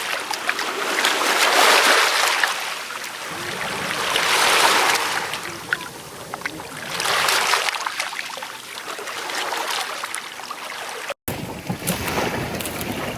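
Ocean surf washing onto a beach, a rushing hiss that swells and fades about every three seconds, with some wind on the microphone. A cut near the end switches to a different steady noise.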